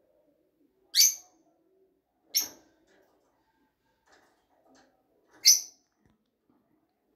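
A bird chirps three times, short and high-pitched, about a second in, at two and a half seconds and past five seconds. Faint rubbing of a wooden rolling pin on floured dough runs underneath.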